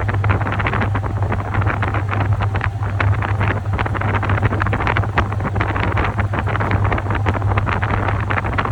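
Top-loading washing machine running: a steady motor hum under a continuous, irregular swishing of water and laundry in the drum.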